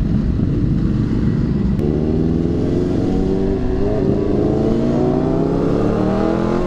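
Honda CBR600RR's inline-four engine under way, its pitch climbing steadily from about two seconds in as the bike accelerates in gear, over a constant low rumble of wind and road.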